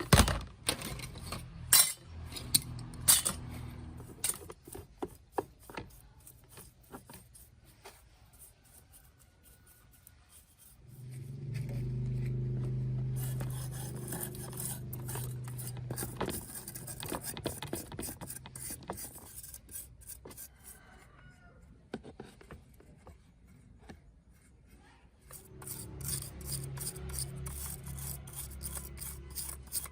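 Hand-working of a small model-car part: sharp taps and clicks with filing or scraping strokes. A small power tool runs steadily for a few seconds about eleven seconds in, and again near the end.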